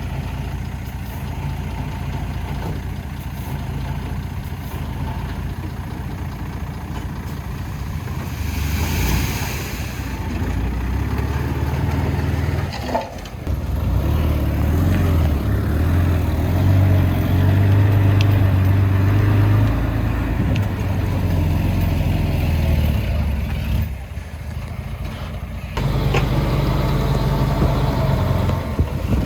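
Diesel engine of heavy earthmoving machinery running, growing louder and working harder from about a third of the way in, with two sudden short breaks in the sound.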